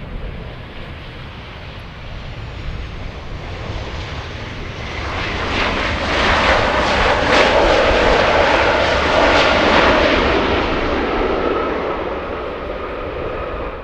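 Jet airliner passing by: engine noise swells, is loudest for a few seconds in the middle, then fades away.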